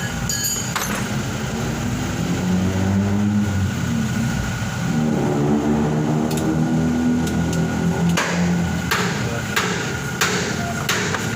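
A hammer striking metal repeatedly in a workshop, about one and a half blows a second, starting about two thirds of the way in. Before that, a steady pitched drone.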